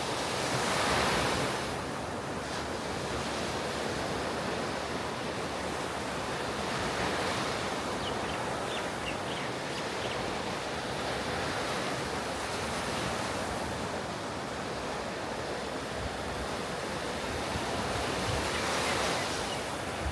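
Ocean surf breaking on the beach: a continuous rush of waves that swells about a second in and again near the end.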